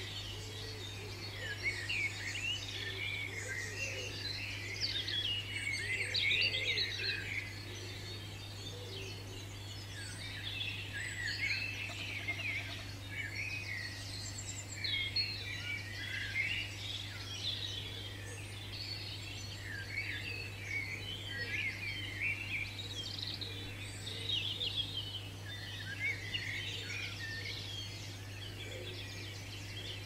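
Small garden birds chirping and singing in a busy, continuous chorus of short high notes, over a steady low hum.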